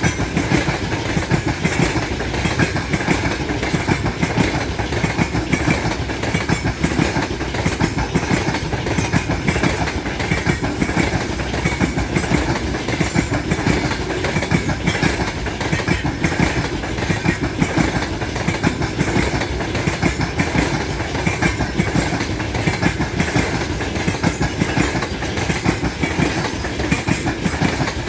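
Freight train rolling steadily past, its wagon wheels clattering over the rail joints.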